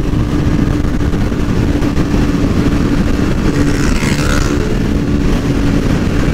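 Kawasaki ZX-6R 636's inline-four engine running at a steady highway cruise, its note holding one pitch, under a heavy rush of wind and road noise.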